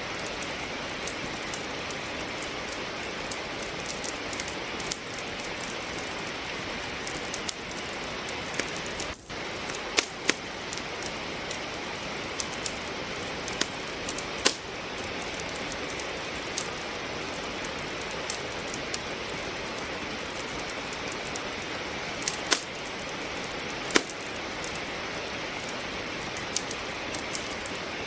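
Steady rain hiss with a wood fire crackling over it: irregular sharp pops and snaps from burning logs, a few of them louder than the rest.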